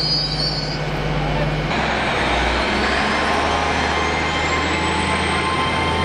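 Train running on the railway line, with a high wheel squeal in the first second. After a sudden change nearly two seconds in, it goes on as steady running noise with a high whine that slowly rises in pitch.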